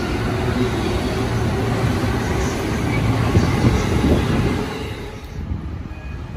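JR Keiyo Line electric commuter train running past close by: a loud, steady rumble of wheels on rail. About five seconds in it gives way to a much quieter, distant background.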